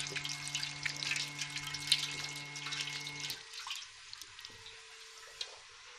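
Water spattering from a handwashing machine's nozzle into the basin over a steady hum from its small water pump motor. Both cut off together about three seconds in, leaving a few faint drips.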